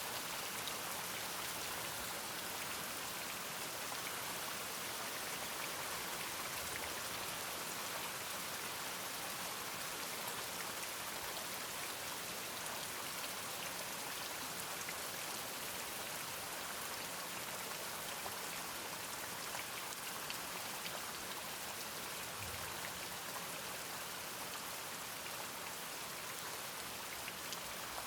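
Steady rain: an even hiss of falling rain with fine drop ticks, unchanging throughout.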